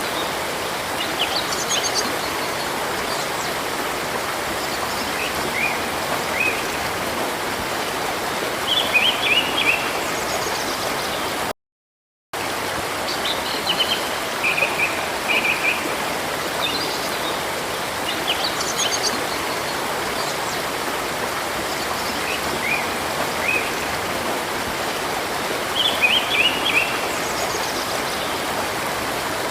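Steady running water of a river with small birds chirping over it in short runs of high notes. The sound cuts out completely for under a second about a third of the way in.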